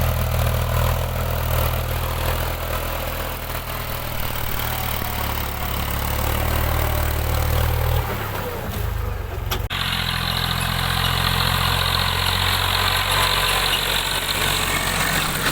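Diesel tractor engine running steadily with a deep, low drone. About eight seconds in the sound shifts, and shortly after it cuts abruptly to a different engine note, running steadily.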